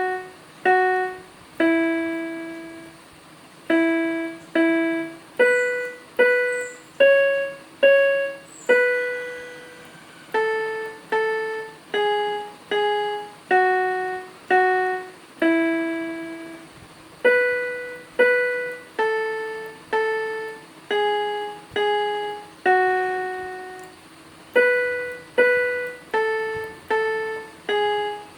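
Background music: a slow, simple melody played one note at a time on a piano-like keyboard, each note fading quickly, with a few longer held notes.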